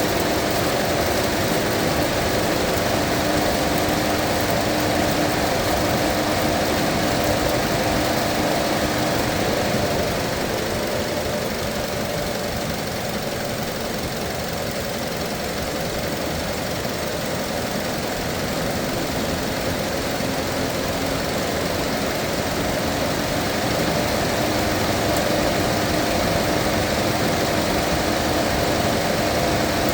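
Mazda 2.5 engine idling steadily while its cooling system is bled of air at operating temperature. A faint steady whine over the idle drops away about a third of the way in and comes back near three quarters.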